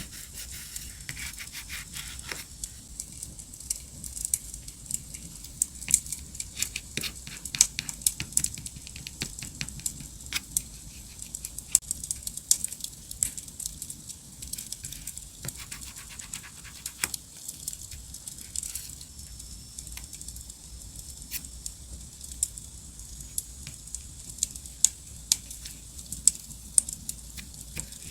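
Campfire crackling: irregular sharp pops and snaps scattered over a soft steady hiss.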